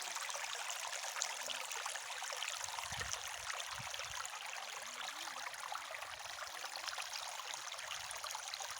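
Running water flowing steadily, a stream trickling and splashing with an even hiss.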